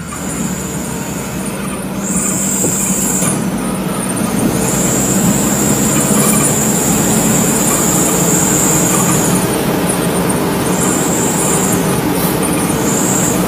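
A truck driving on the road: steady engine and road noise with a low hum, and a high, thin whine that comes and goes several times.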